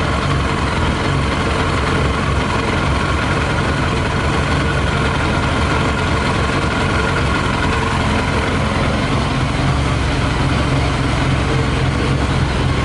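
Yamaha YZF600R's inline-four engine idling steadily on whisky (40% alcohol) in the tank, with a little petrol still left in the carburettors. The owner hears it as running a bit funny on the alcohol.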